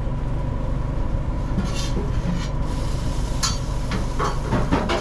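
Steady low drone of a food truck's kitchen machinery, with a thin steady whine over it. A few short clatters and scrapes of cooking come in the second half.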